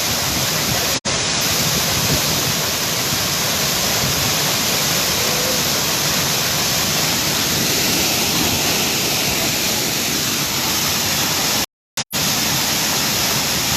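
Waterfall pouring with a steady, loud rush of water. The sound cuts out for an instant about a second in and twice briefly near the end.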